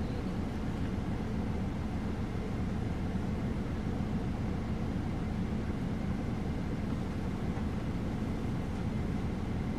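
Steady low engine hum and road rumble of a bus heard from inside, with no distinct events.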